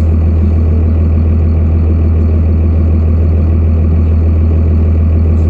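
Truck engine idling: a steady, unchanging low drone, heard from inside the cab.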